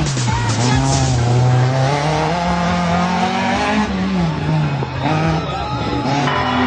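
Competition car's engine revving hard through a cone slalom, its pitch climbing under throttle for a few seconds, dropping sharply about four seconds in, then climbing again near the end.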